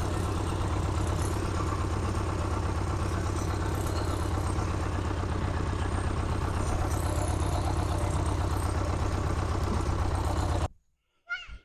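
Farm tractor engine running steadily while working with its front end loader. It cuts off suddenly near the end.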